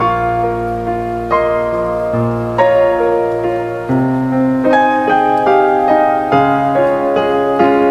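Background piano music: a slow, gentle melody with sustained bass notes.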